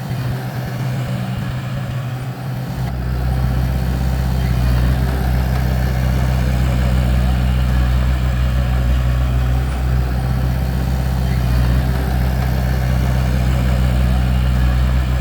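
Bulldozer's diesel engine running steadily. About three seconds in it comes up to a louder, heavier note and holds there, as under load.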